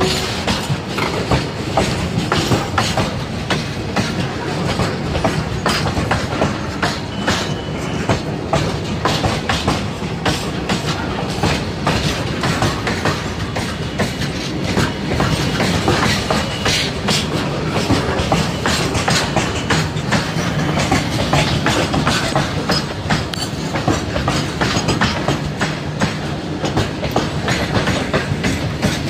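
Freight train's covered wagons rolling past close by: a steady rumble of steel wheels on rail with a rapid, continuous clickety-clack of wheels striking the rail joints.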